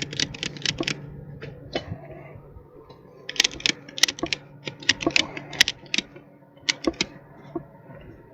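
Irregular runs of sharp clicks and clinks from hard objects being handled, over a faint steady low hum.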